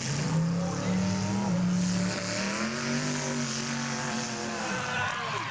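Demolition derby car engines revving; one engine rises in pitch about two seconds in, holds, then drops away near the end.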